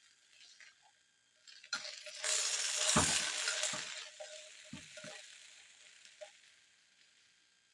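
Silkworm pupae sizzling in a hot pan: a sudden rush of sizzling about two seconds in that slowly dies away, with a few dull knocks partway through.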